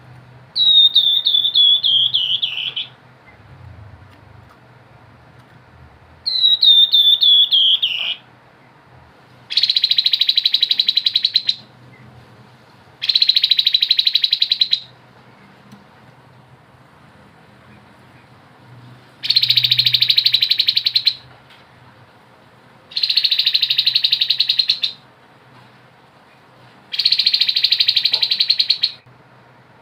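Grey-headed babbler (tepus kepala abu) singing in separate two-second phrases: twice a quick run of whistled notes falling in pitch, then five rapid, buzzy rattling trills (the 'ngebren' song).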